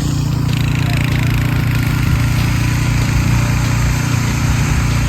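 An engine running steadily at idle, with a low hum.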